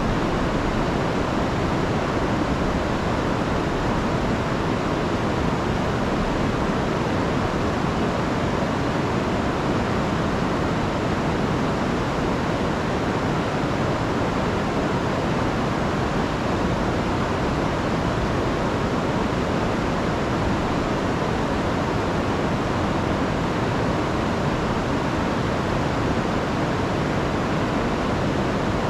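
Rain-swollen river rushing over a waterfall: a steady, unbroken roar of water.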